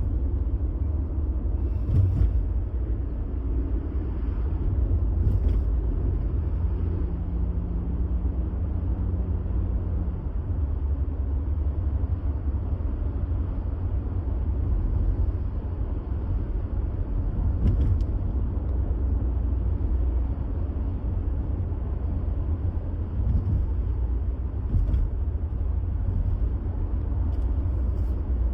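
Car driving along a road: a steady low rumble of tyres and engine, with a few brief thumps and clicks. Partway in, a steady hum is heard for a few seconds.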